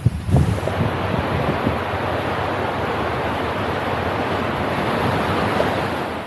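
Sea surf washing onto the shore in a steady rush, with wind thumping on the microphone in the first second.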